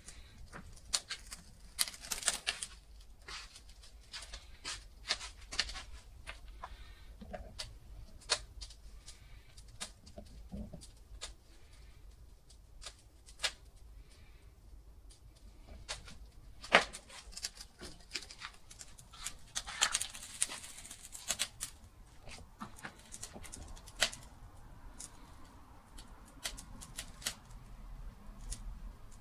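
Wood fire crackling, with irregular pops and snaps and a couple of longer hissing rushes, one about two seconds in and another around twenty seconds in.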